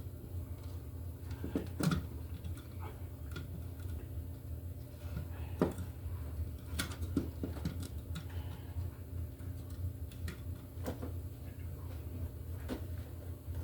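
Scattered small clicks and knocks at irregular times over a steady low hum, the sound of hands working at something close by.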